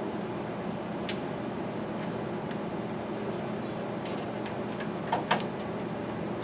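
A few sharp clicks and knocks from hand-tool work on the cab's sun-visor hardware, loudest as a double knock about five seconds in, over a steady background hum.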